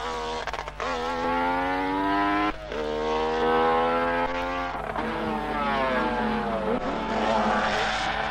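Racing sidecar outfit's engine running at high revs. Its pitch dips and climbs again a few times as it shifts gear.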